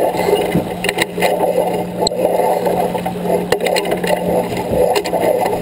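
Steady rush of wind and water on a J24 sailboat under way, under a constant low hum, with a few sharp knocks from gear being handled on deck.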